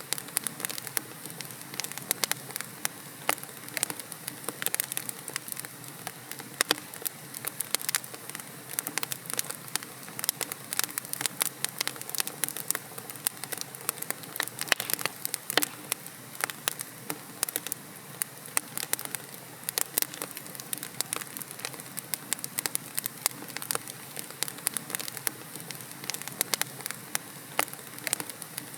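Wood fire in a fireplace, burning logs crackling with many irregular sharp pops and snaps over a soft steady hiss.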